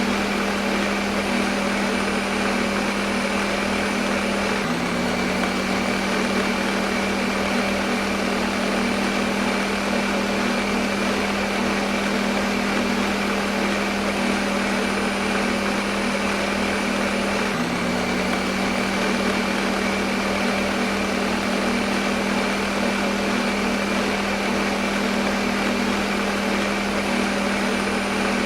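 Electric kitchen blender running continuously: a steady motor hum with a whine and a whirring hiss over it. The hum's pitch dips briefly twice, about five seconds in and again near eighteen seconds, then settles.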